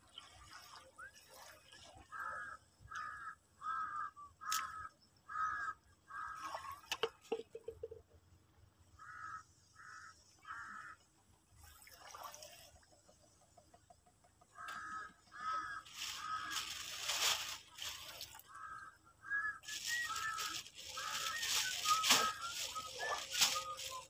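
A bird calling over and over in runs of short calls, about one a second. Two stretches of rushing noise come in the second half.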